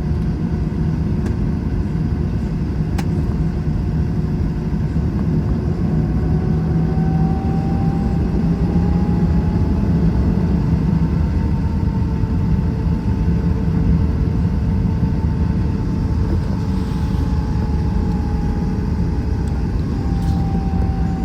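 Steady low cabin rumble of an Airbus A321's jet engines, with a faint engine whine that rises a little in pitch and then eases back down.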